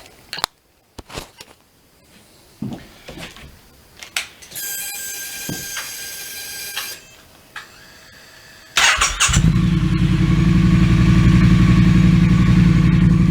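Triumph Street Cup's 900 cc parallel twin starting up through freshly fitted TEC slip-on mufflers: a few clicks and a steady high whine lasting a couple of seconds, then about nine seconds in the engine fires and settles into a loud, steady idle.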